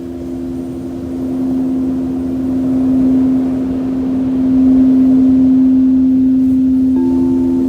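Singing bowls ringing in long, steady, overlapping tones that swell in loudness around the middle; a new, higher bowl tone comes in near the end. A low wash of ocean surf lies underneath.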